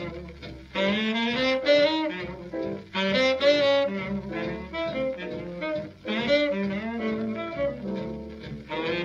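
Tenor saxophone soloing in three long, flowing phrases over a jazz rhythm section of piano, guitar, string bass and drums, on an old 78 rpm record.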